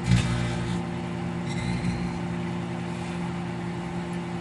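Microwave oven running with plasma burning inside it: a steady electrical hum with a hiss over it, and a short louder noise right at the start.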